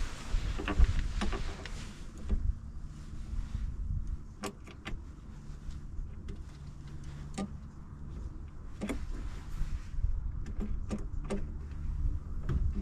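Scattered knocks, clicks and light rattles of tools and parts being handled, over a low rumble.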